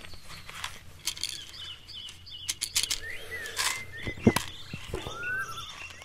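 Birds chirping outdoors: short rising whistled calls repeated every second or so, with scattered sharp clicks and a single louder knock about four seconds in.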